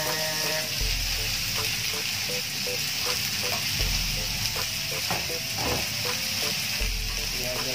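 Freshly added green beans sizzling hard in hot oil in a wok, stirred with a wooden spatula that scrapes and knocks against the pan now and then.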